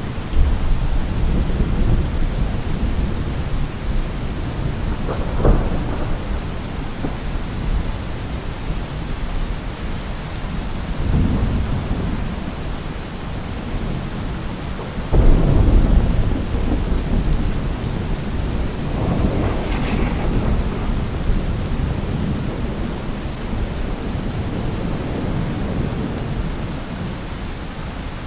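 Thunderstorm: steady heavy rain with rolling thunder, the loudest claps breaking in sharply right at the start and about fifteen seconds in, with smaller crashes around five and eleven seconds in and a rumble near twenty seconds.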